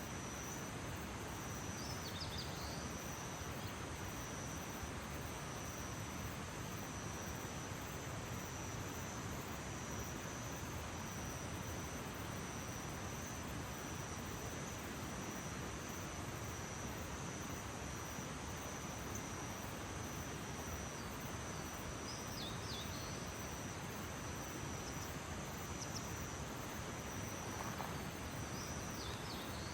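Outdoor nature ambience: a continuous high insect trill over a steady haze of background noise. A few short, falling bird chirps come about two seconds in, around twenty-two seconds, and near the end.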